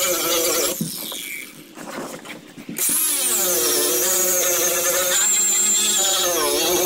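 Electric grinder with a sanding pad grinding fiberglass, its motor pitch wavering as pressure on the pad changes. About a second in it winds down, and near the three-second mark it starts up again at full speed.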